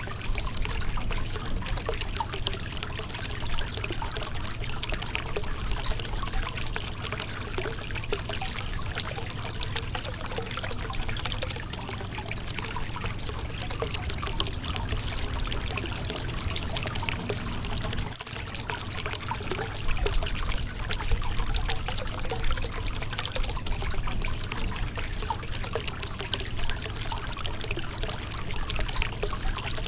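Shallow river water running and splashing over a rocky bed: a steady rush with many small trickles and splashes.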